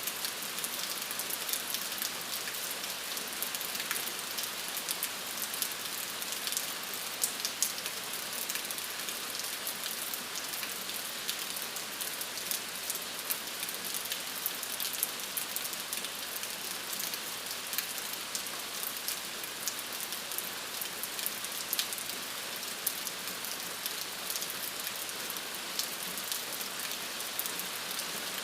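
Steady rain falling, a dense hiss of drops with many small crisp drop hits throughout.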